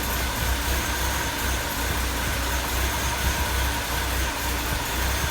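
BMW E36's M43 four-cylinder engine idling steadily with a low rumble.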